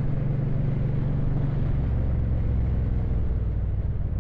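Motorcycle engine running on the road, heard from inside the rider's helmet with wind and road noise; the engine note drops to a lower pitch about two seconds in as it slows.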